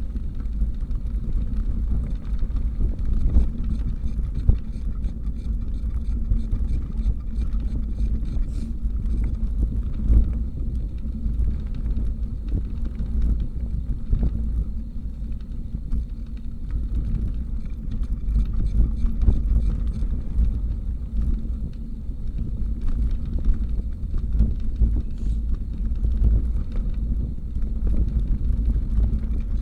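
Steady low wind rumble on the microphone and road noise from a bicycle being ridden, with scattered small knocks and rattles.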